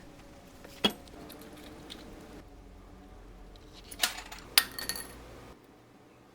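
Small metal watch parts and tools clinking on a workbench: a sharp clink about a second in, then two more close together around four seconds in, the second with a brief ring. A low background hum drops away near the end.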